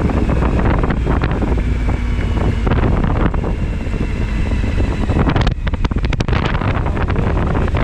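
Wind buffeting the microphone on a moving motorcycle, over the steady running of the Suzuki V-Strom 1000XT's V-twin engine, with a short drop in level about five and a half seconds in.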